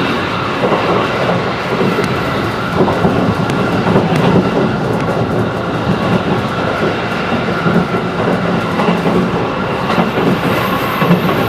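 Running noise heard from inside a JR 211 series electric train's passenger car: a steady rumble of wheels on rail, with scattered clicks as the wheels pass over rail joints.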